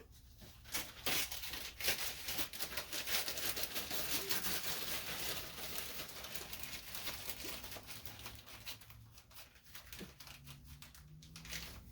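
Plastic bag crinkling and rustling as it is handled, a dense run of crackles that thins out in the last few seconds.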